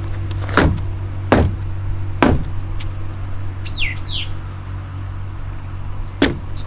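Sharp plastic knocks and clicks from handling a car's air-filter housing: three about a second apart early on and one more near the end. A bird chirps twice in the middle, over a steady low hum and a high steady whine.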